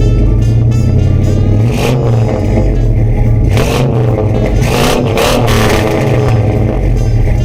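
Suburban's engine running and revving, with surges about two seconds in and again around the middle. The exhaust note comes through a cobbled catless exhaust with a Flowmaster muffler.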